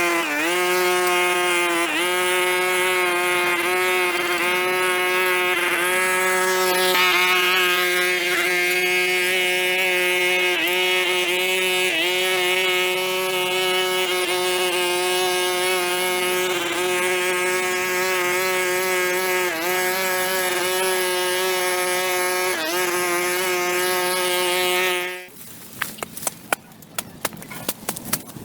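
Small engine-driven tool running steadily at high speed, its pitch dipping briefly every couple of seconds, then shutting off suddenly about 25 seconds in. A few sharp clicks and knocks follow near the end.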